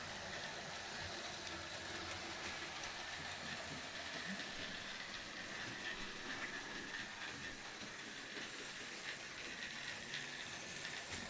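Bachmann Thomas model locomotive running on its track, pulling a second model engine and four trucks: a steady whir of its small electric motor and wheels, with light scattered clicks.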